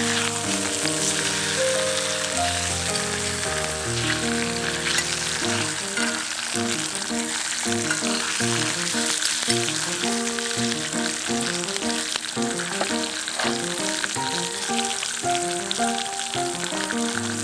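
Food frying in a pan over a campfire, a continuous sizzle with crackles, under background music with a steady melody of sustained notes.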